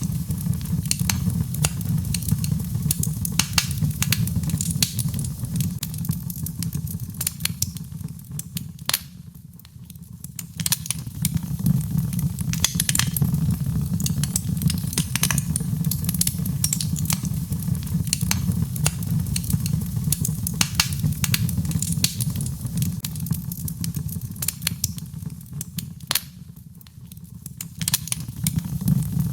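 Birch logs burning in a fireplace: frequent sharp crackles and pops over a steady low rumble. The sound thins out briefly twice, about a third of the way in and again near the end.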